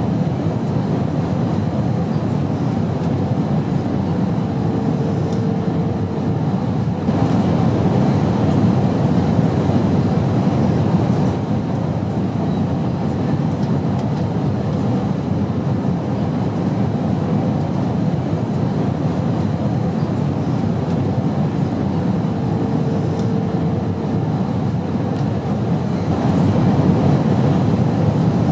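Steady low drone of an airplane in flight: an even rumble of engine and air noise, with a faint held tone coming in briefly twice.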